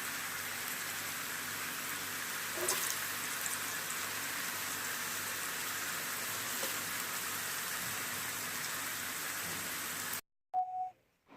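Gram-flour-battered beetroot strips sizzling steadily in hot oil as they deep-fry over a medium flame, with a light clatter a few seconds in. The sizzle cuts off abruptly near the end.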